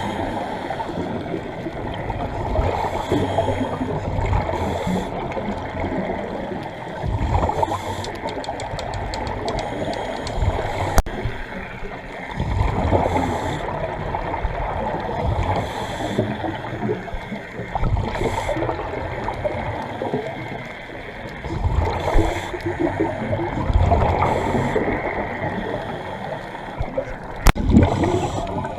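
Muffled underwater gurgling and bubbling, swelling in surges every few seconds like scuba divers' exhaled bubbles from their regulators, with a few faint clicks.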